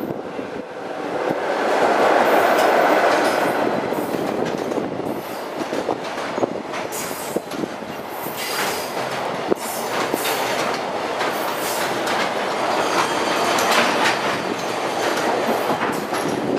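JR Freight EF66 electric locomotive running past close by, loudest about two to three seconds in, followed by a long string of container wagons rolling past with a steady rumble and rapid clickety-clack of wheels over rail joints and points. A few brief high wheel squeals come in partway through.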